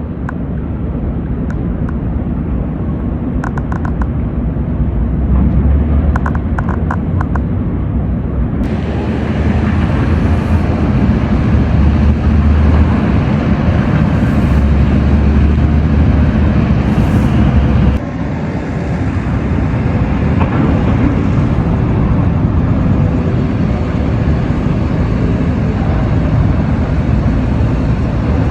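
Steady, loud low rumble of vehicle noise, changing abruptly about nine and again about eighteen seconds in.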